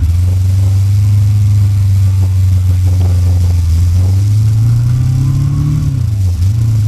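Motorcycle engine heard from on the bike while riding, with a steady note. Near the end the revs climb, then fall away sharply.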